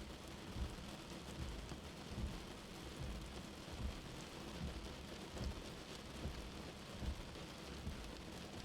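Steady, constant rain with a soft, low heartbeat thump under it, repeating a little under once a second.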